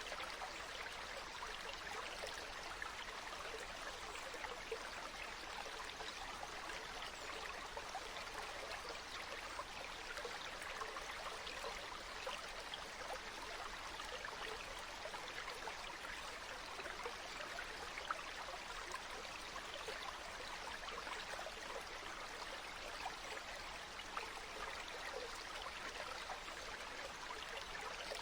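Stream water flowing and babbling steadily, an even rush with many small splashes.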